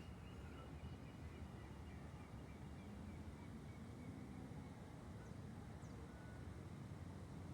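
Faint outdoor background noise with a steady low rumble, and a quick, faint series of high chirps that fades out about halfway through.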